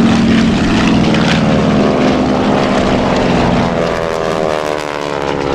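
B-25 Mitchell bomber's twin Wright R-2600 radial engines and propellers making a loud pass, the engine pitch sliding steadily downward as it goes by, then easing off slightly near the end.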